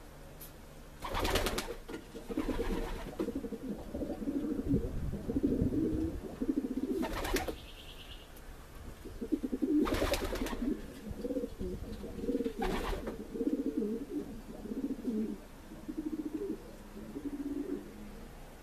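Pigeons cooing: a run of low warbling coos, with five short loud rustles cutting across them.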